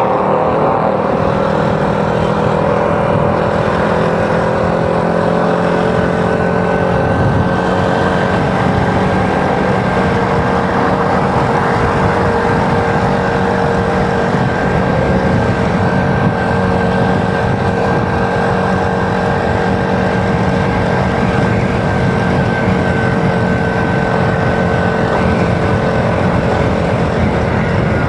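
Motorcycle engine running at a steady pace while riding, with a few steady tones over road and wind noise.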